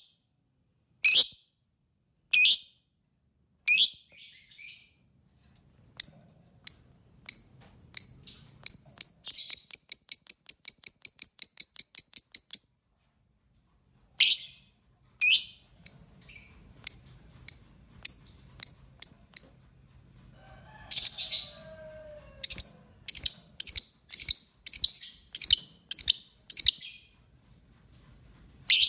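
Lovebird lure calls: shrill, high chirps repeated one after another, with a fast rattling run of chirps about nine to twelve seconds in, over a steady thin high whine.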